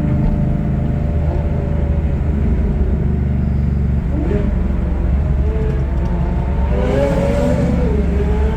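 Corvette Z06's flat-plane-crank V8 revving ahead, its pitch rising and falling several times in the second half, over a steady low drone of car engines.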